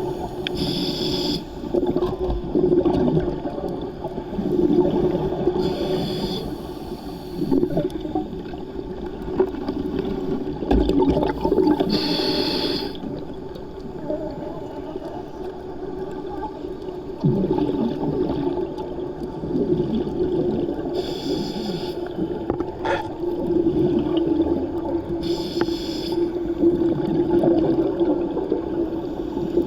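Scuba diver's regulator breathing underwater: a short hiss of inhalation every few seconds, with a continuous bubbling rumble of exhaled air and water noise in between.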